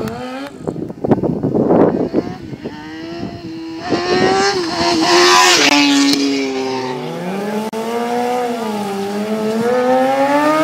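Sport-bike engine revved hard through its exhaust: a rough roar for the first few seconds, then the revs rise and fall several times.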